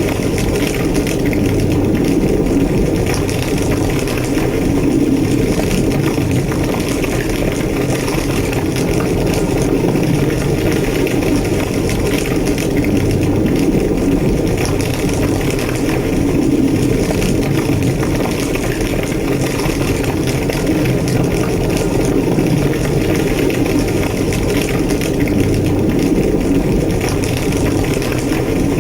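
A large structure fire roaring steadily, a deep rumbling blaze with constant crackling over it.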